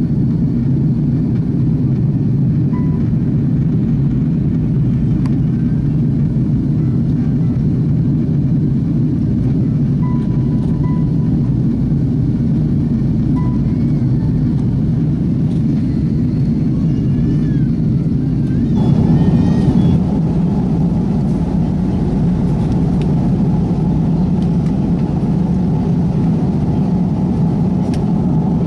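Airbus A330 jet airliner noise: a steady low rumble that brightens and gets a little louder about 19 seconds in.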